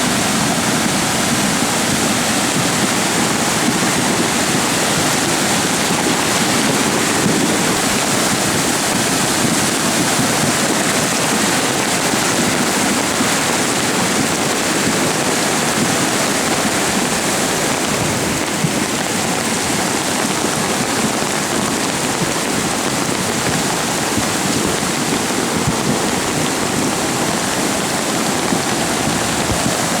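Flooded Stony Creek rushing in a steady, loud torrent of whitewater: a flash flood in full spate.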